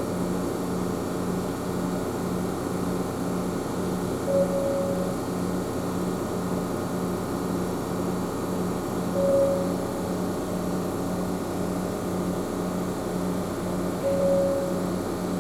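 Ohmi Railway train running noise inside the car: a steady hum with a low, regularly pulsing tone, and a short higher tone about every five seconds.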